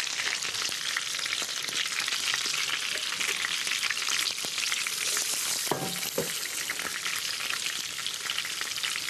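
Chicken pieces sizzling in butter in a frying pan, a steady crackling hiss, with two brief knocks a little over halfway through.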